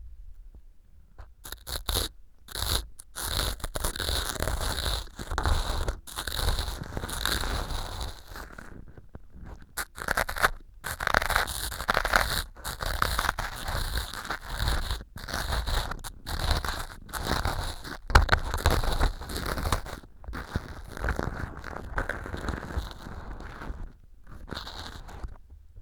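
Ear pick scraping and crumbling small pieces of floral foam used as mock earwax inside a silicone ear model, picked up by a binaural microphone: repeated crisp crunching and scraping strokes in short runs with brief pauses between them.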